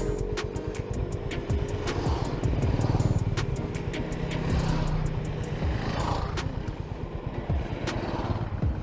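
Motorcycle engine running as the bike is ridden along, picking up revs about three seconds in, with background music over it.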